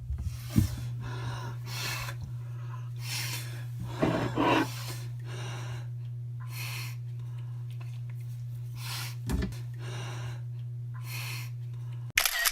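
A person breathing heavily, with loud noisy breaths about once a second, over a steady low electrical hum.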